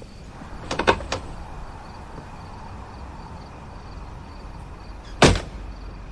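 A door: a few quick latch clicks about a second in, then one sharp bang as it shuts near the end, over a low steady hum.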